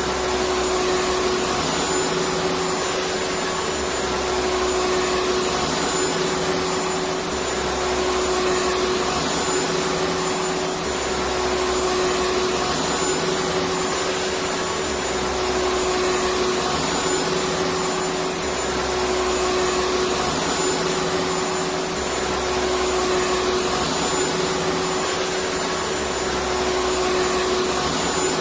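Vacuum cleaner motor running steadily, a constant rushing whoosh with a steady hum under it.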